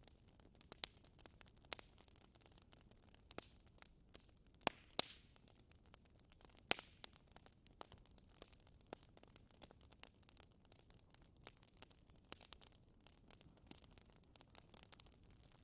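Wood fire crackling quietly: irregular sharp pops and snaps over a faint hiss, with two louder pops about five and seven seconds in.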